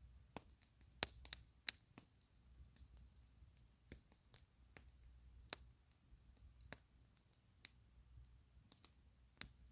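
Campfire crackling: scattered sharp pops and snaps of burning wood at irregular intervals, a few louder ones near the start, over a faint low rumble.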